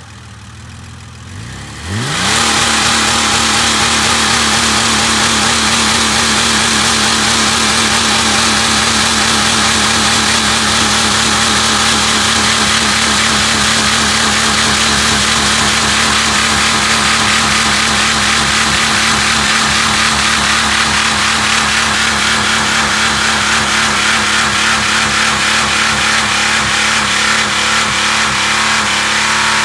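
Jeep Grand Cherokee engine idling, then revved up about two seconds in and held steadily at high revs. The engine is running on Roundup herbicide in place of engine oil and is being run to destruction.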